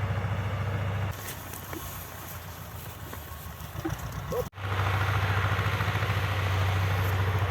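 A small engine running with a rapid, even low pulsing hum. About a second in it drops to a quieter spell with a few faint chirps, and after an abrupt break at about four and a half seconds the engine comes back at full level.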